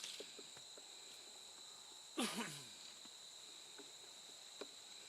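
Insects trilling steadily at a high pitch. About two seconds in comes one short, louder sound that falls in pitch, with a few light knocks here and there.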